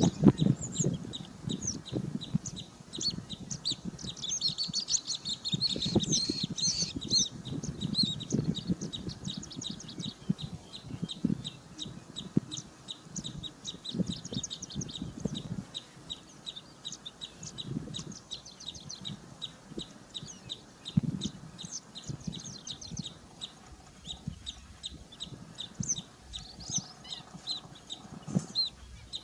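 Birds calling: short low calls repeat throughout, over rapid high-pitched chirping that is densest about four to eight seconds in.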